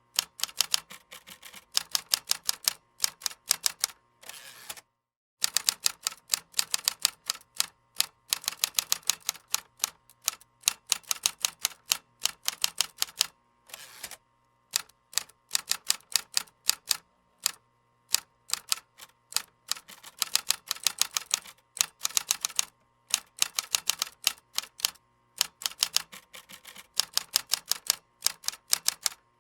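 Typing on a computer keyboard: fast runs of clicking keystrokes broken by brief pauses.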